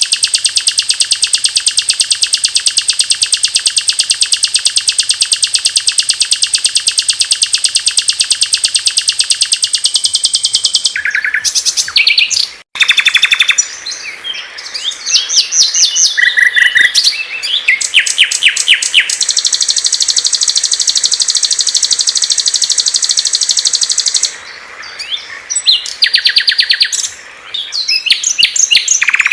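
Small songbirds singing: a very fast, high trill held for about ten seconds, then, after a cut, varied chirps and short trills, with another long fast trill from about 19 to 24 seconds in.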